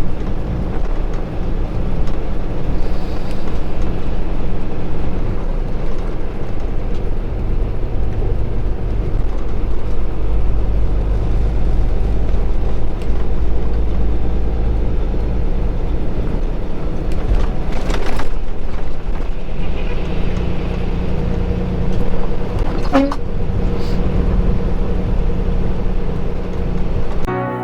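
Kenworth T680 semi truck driving: the engine runs steadily with a constant low rumble of engine and road noise, and its pitch settles into a new steady tone about two-thirds of the way through. A few sharp clicks or knocks sound briefly near the end.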